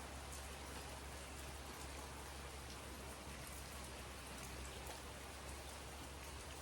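Steady rain falling: an even hiss with scattered individual drops ticking, over a steady low rumble.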